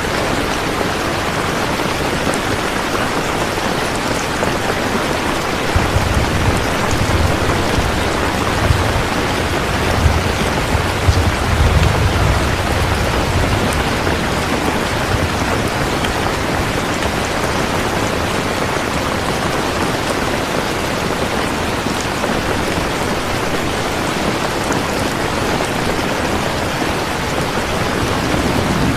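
Steady rain falling, with a low rumble of thunder rolling for several seconds about a quarter of the way in.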